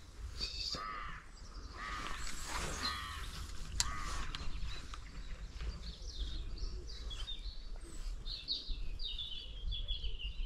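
Birds calling: a few arching calls in the first four seconds, then a run of short, quick high chirps in the last few seconds, over a steady low rumble. A single sharp click about four seconds in.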